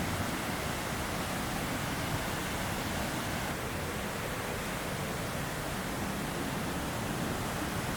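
Steady rush of a fast-flowing hill stream in the monsoon, even and unbroken.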